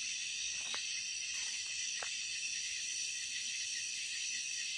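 Chorus of crickets and other night insects: a steady, high-pitched trilling that does not change, with a couple of faint ticks in the first two seconds.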